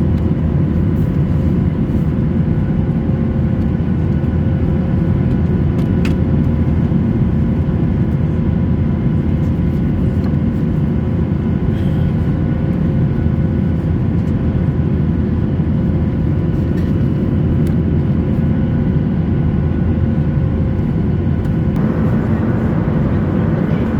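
Steady cabin noise inside a Boeing 737-800: a loud, even low rumble with a faint steady hum on top. A little more brightness comes in near the end.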